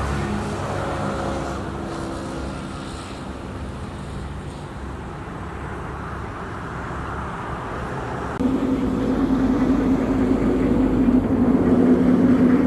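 A motor vehicle's engine fading away over the first couple of seconds, leaving a quieter rumble. About eight seconds in, a louder engine starts abruptly and runs steadily with a low hum.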